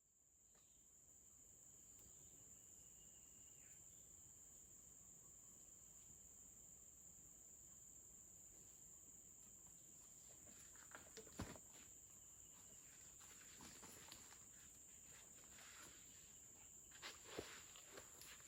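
Faint steady high-pitched drone of forest insects, with a few soft rustles and knocks about ten to twelve seconds in and again near the end.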